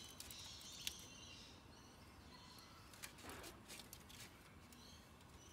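Near silence with faint bird chirps and a few soft clicks.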